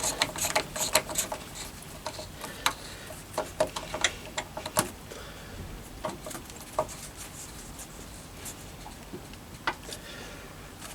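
Scattered sharp clicks and taps of a gear puller being fitted, its clamp jaws set behind a crankshaft pinion gear. Most of the clicks fall in the first half.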